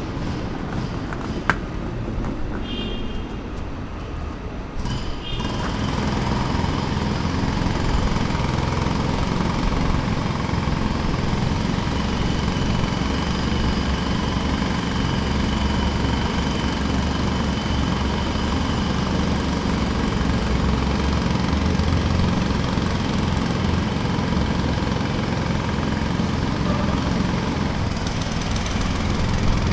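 Jackhammer pounding continuously, a rapid steady hammering mixed with engine noise, growing louder and fuller about five seconds in.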